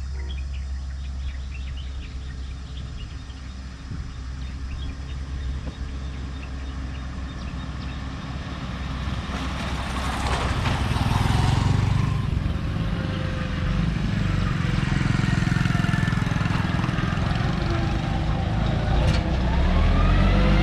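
Heavy diesel vehicle engines running with a steady low rumble, growing louder about halfway through, with rising whines near the end.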